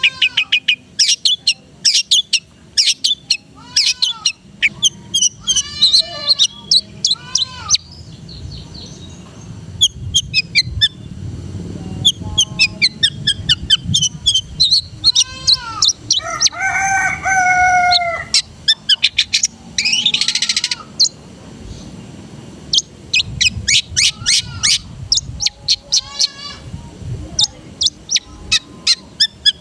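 Long-tailed shrike (cendet) singing a varied, mimicry-rich song: quick runs of sharp high notes, slurred whistled phrases, and a few harsh rasping notes.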